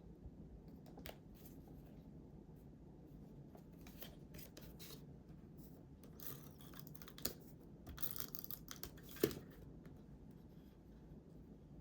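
Scissors cutting paper: a run of short, crisp snips and paper rustles that grows busier in the second half, ending in one sharper, louder snip.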